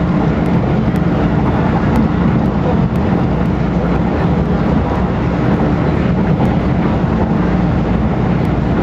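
MTR MLR Metro-Cammell electric train at speed, heard from inside the carriage: a steady, loud low rumble of wheels on the track and running gear.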